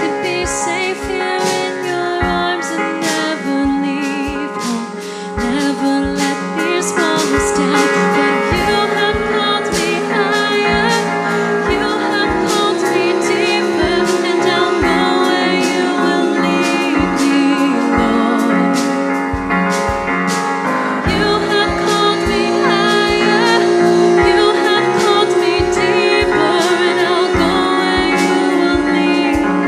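Live worship song: a female voice and choir singing long held notes with vibrato over a band keeping a steady beat.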